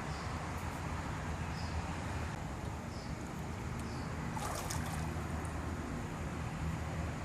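Steady low hum of a pool pump with water running, from a swimming-pool jet vacuum setup at work.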